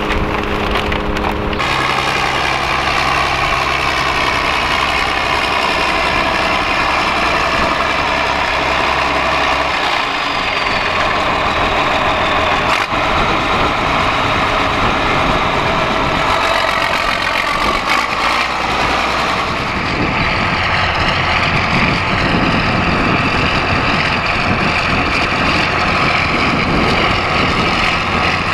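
Farm tractor's diesel engine running steadily, with the sound changing abruptly shortly after the start and again about two-thirds of the way through.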